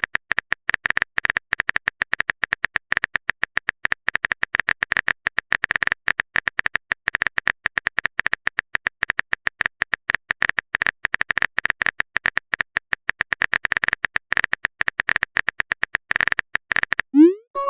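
A keyboard typing sound effect: rapid, irregular clicks with no pause, as a chat message is typed out. Near the end a message-sent sound plays, a quick rising swoop followed by a short chime.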